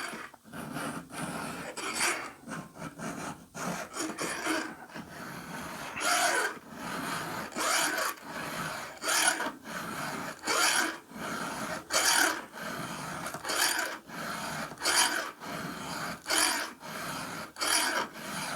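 Hand file rasping across a chainsaw chain's cutter tooth during sharpening, in repeated strokes. The strokes are irregular at first, then settle into a steady rhythm of about one every second and a half.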